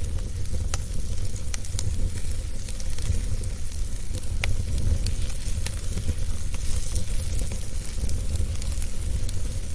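Wood fire burning in a fireplace: a steady low rumble under a soft hiss, with scattered sharp crackles and pops.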